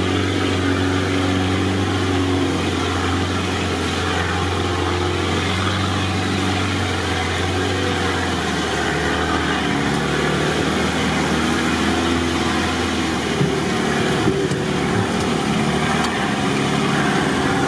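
Off-road 4x4's engine running as it drives slowly through mud and water. The engine note shifts about eight seconds in.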